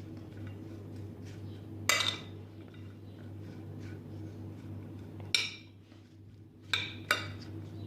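A utensil clinking against a dish while a food mix is stirred: four sharp clinks, one about two seconds in, one past the middle and two close together near the end, over a steady low hum.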